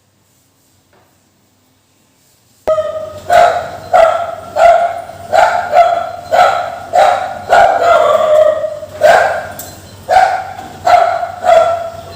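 A dog barking over and over, about a dozen loud barks at roughly one and a half a second. The barking starts suddenly about three seconds in, after near silence.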